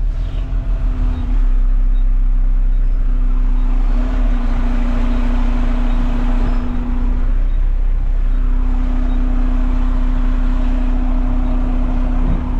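Front-load garbage truck's engine running, a low rumble with a steady hum that drops out briefly about two thirds of the way in.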